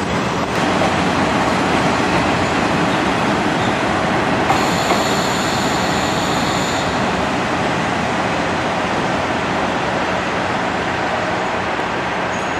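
Train noise from an express-type diesel railcar: a steady rumble of engine and wheels on rail, with a high squealing tone from about four and a half to seven seconds in.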